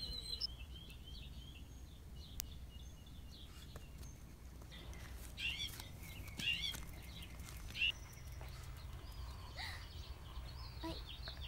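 Outdoor ambience: a steady low rumble with scattered short, high chirps from small birds, a few near the start and a louder cluster in the middle.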